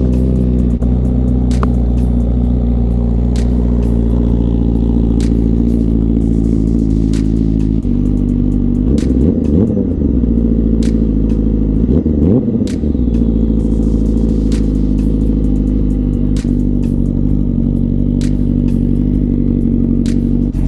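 Honda CBR1000RR-R Fireblade SP inline-four engine idling through a Leo Vince slip-on exhaust, warming up after a cold start. It is blipped twice, about nine and twelve seconds in, the revs rising and dropping straight back to a steady idle.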